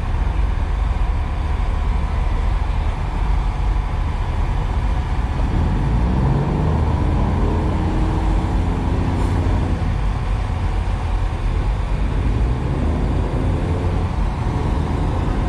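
A steady, loud low rumble of a running engine.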